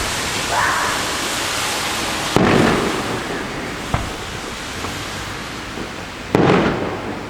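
Fireworks going off: two loud bursts about four seconds apart, each trailing off, with a sharp crack between them, over a steady hiss.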